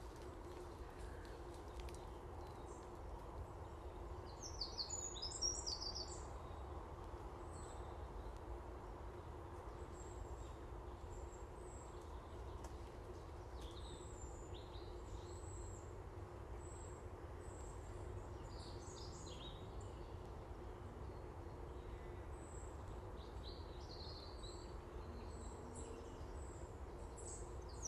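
Small birds chirping and calling on and off in short high bursts, over a steady low background rumble.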